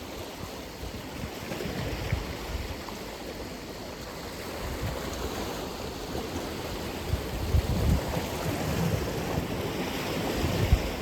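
Atlantic Ocean waves breaking and washing on the shore, a steady surf hiss that swells louder in the second half as a wave breaks, with low rumbles of wind on the microphone.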